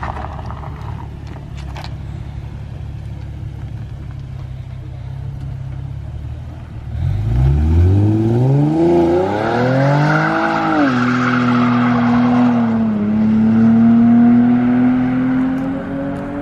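Nissan 370Z's 3.7-litre V6 running steadily at low revs, then revving up in a rising pitch, dropping sharply about eleven seconds in, and holding a steady higher note that climbs slowly before falling away near the end.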